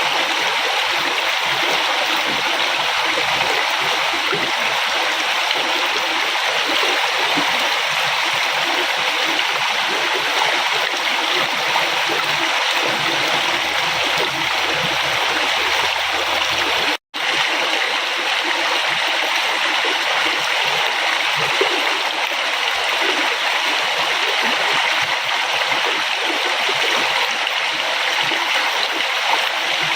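River water flowing and splashing in a steady, even rush. It cuts out for an instant about seventeen seconds in.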